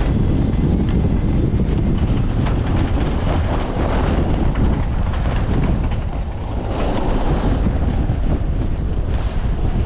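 Strong wind buffeting the microphone aboard a small sailing yacht under way, with water rushing along the hull. A brief, brighter hiss comes about seven seconds in.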